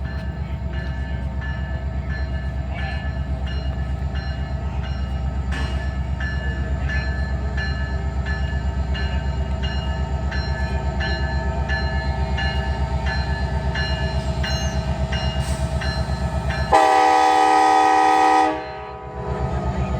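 Alaska Railroad train running with a steady low rumble and a fast, even throb, then the locomotive horn sounds one loud blast for about a second and a half near the end, cutting off abruptly.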